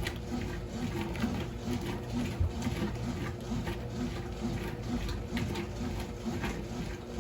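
Electrolux Turbo Limpeza Premium 6 kg top-loading washing machine running its wash cycle: a steady rhythmic mechanical churning that pulses about twice a second, with a low motor hum and light clicks and swishes.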